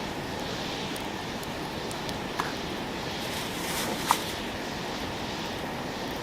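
Wood campfire burning with a steady hiss and scattered light crackles, and two sharper pops about two and a half and four seconds in.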